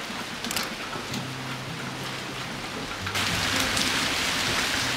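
Heavy typhoon rain pouring and spattering on a plastic bin lid. About three seconds in, the rush of rain and wind grows louder and fuller.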